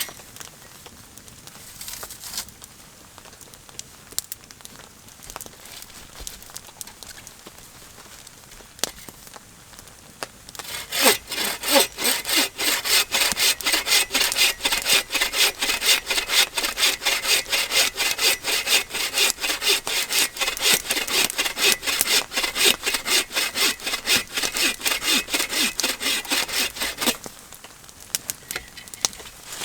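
Hand saw cutting through a striped maple branch in steady back-and-forth strokes, about two to three a second. The sawing starts about eleven seconds in after a quiet stretch with a few small knocks, and stops a few seconds before the end.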